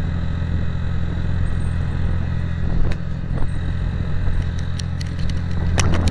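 Direct Bikes DB125-9's single-cylinder Zongshen 156FMI four-stroke engine running steadily as the motorcycle is ridden, with a few sharp clicks in the second half.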